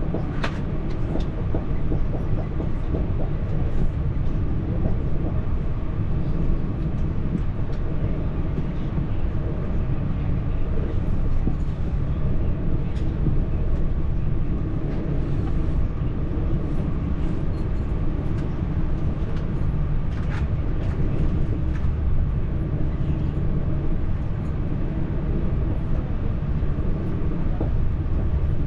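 TER regional train running, heard from inside the carriage: a steady low rumble with occasional faint clicks and rattles.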